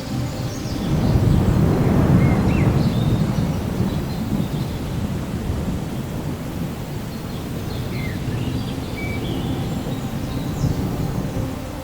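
Thunder rolling over steady rain: a low rumble swells about a second in and slowly eases off under the rain's steady hiss. A few short high chirps sound over it.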